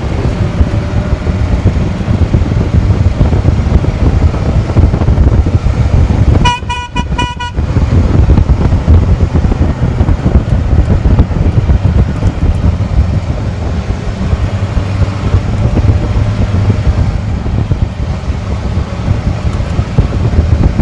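A small vehicle driving, a steady low rumble of motor, road and wind noise. A horn toots for about a second roughly a third of the way in.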